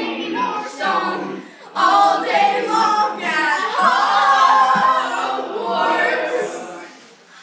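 People singing without instruments, their voices fading out near the end.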